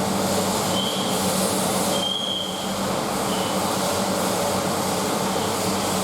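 SsangYong Korando C 2.0 XDi diesel engine (671.950) running steadily on a test stand, with short faint high-pitched whines about one, two and three seconds in.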